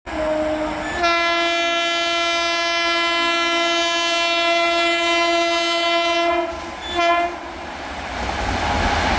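Horn of a WAP-7 electric locomotive hauling a passing express: a brief blast, then one long blast of about five seconds, then a short blast. After it the train's running noise grows louder near the end.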